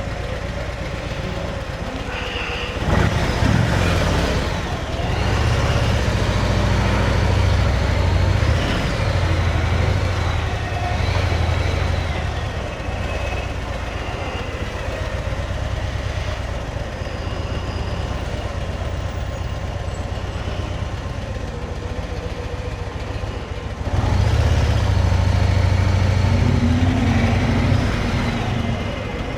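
Motorcycle engine running with wind noise while riding in slow traffic. It gets louder and rises in pitch as the bike pulls away about three seconds in, and again near the end.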